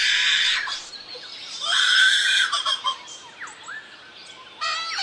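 Lyrebird mimicking a baby's crying: two loud wailing cries, followed by a few faint chirps and short whistles as part of its courtship song.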